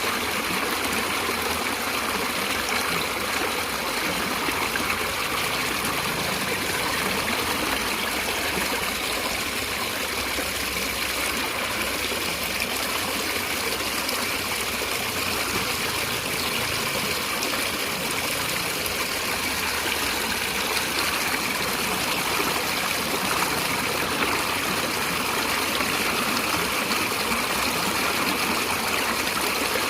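A stream of water running steadily over rocks, an even, unbroken rush with a trickling, splashing texture.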